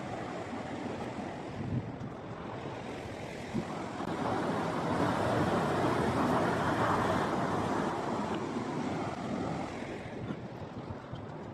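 Ocean surf: a wave breaks and washes up the beach, swelling about four seconds in and fading after about nine seconds, with wind buffeting the microphone.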